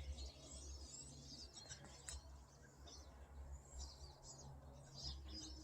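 Faint, many-voiced twittering of a flock of pine siskins, including begging fledglings: short, high chirps that overlap throughout.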